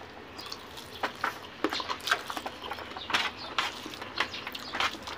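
Mouth sounds of eating: chewing and lip smacks, a string of irregular short clicks, as chicken and rice are eaten by hand.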